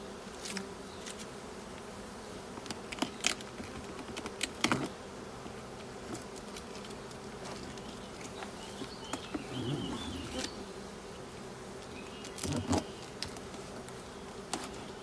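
Honeybees buzzing steadily around an open hive. Scattered sharp clicks and knocks come through it, the loudest about a third of the way in and again near the end.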